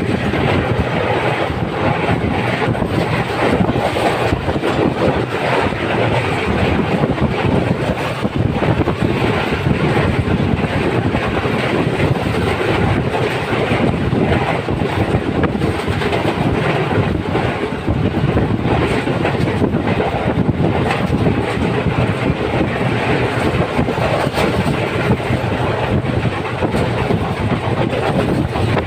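Train running along the track: a steady rumble with wheels clacking over the rail joints, heard from on board.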